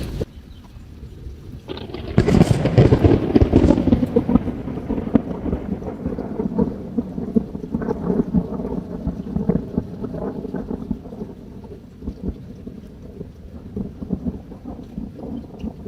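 Campfire crackling over a low steady water noise. About two seconds in a loud rolling rumble rises suddenly and fades slowly over several seconds.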